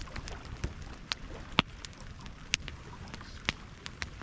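Wood campfire crackling, with sharp pops at irregular intervals about once a second over a steady hiss of rain.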